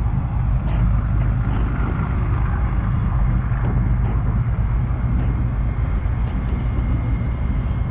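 Steady low rumble of a vehicle engine running, with no change in pitch.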